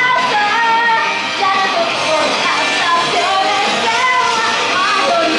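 A female singer performing a pop-rock song live over loud, steady backing music.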